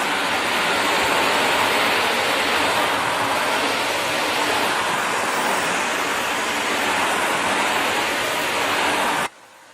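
Shark NV360 Navigator Lift-Away upright vacuum running, a loud steady rushing of motor and suction that cuts off suddenly near the end, leaving only a faint hiss.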